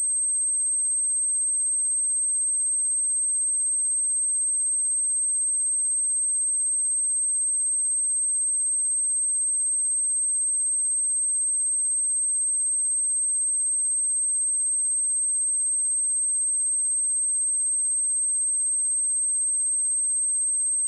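A pure 8321 Hz sine-wave test tone: a single high-pitched steady whistle that holds at one pitch and level without a break.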